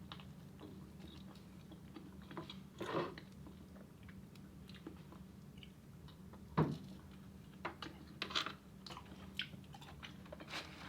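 Close-miked chewing and mouth sounds of someone eating, with scattered soft crunches and smacks, the loudest about two-thirds of the way through, over a faint steady low hum.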